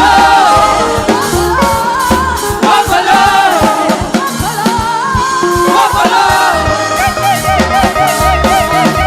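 Gospel choir singing praise with a band of bass, drums and percussion.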